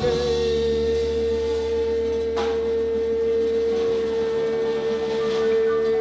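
A singer holding one long, steady sung note at the end of a line, with a faint steady low accompaniment underneath and a brief click about two seconds in.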